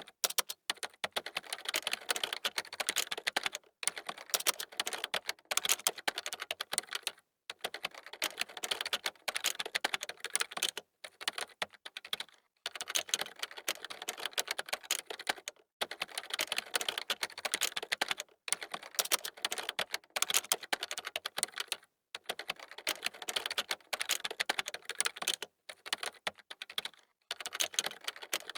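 Computer keyboard typing: fast, dense runs of key clicks broken by brief pauses every few seconds.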